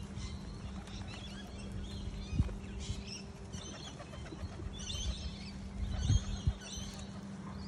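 Small birds chirping in short bursts, busiest about five to six and a half seconds in, over a low outdoor rumble with a few dull thumps.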